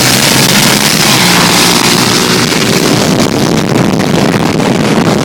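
Motor vehicle engine running at full throttle while accelerating, mixed with heavy wind buffeting on the microphone. The sound cuts off abruptly near the end.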